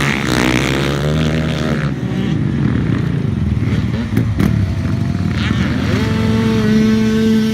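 Dirt bike engines revving and shifting, their pitch climbing and dropping as the bikes ride. Near the end one engine holds a steady note for about two seconds.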